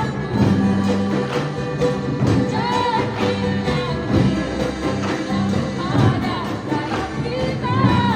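Live concert music: a singer's gliding vocal line over a band with sustained bass notes.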